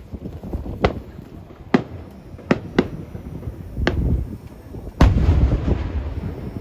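Aerial fireworks shells bursting overhead: a run of sharp bangs roughly every second, with a low rumble between them. The loudest is a heavy boom about five seconds in, followed by a long rolling rumble.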